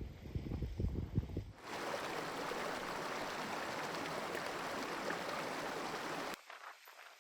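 Wind buffeting the microphone, then an abrupt switch to the steady rush of a stream or burn for about five seconds, then a cut to faint, quiet outdoor background near the end.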